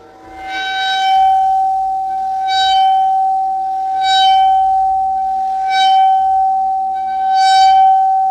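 Metal Chladni plate ringing with a steady, loud high tone, and a brighter, buzzing overtone that swells and fades five times, about every second and a half.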